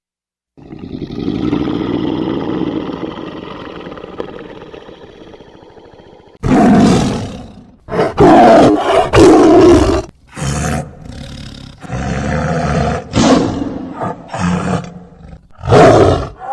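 A large animal roaring: one long drawn-out call, then a run of about eight loud, shorter roars in quick succession.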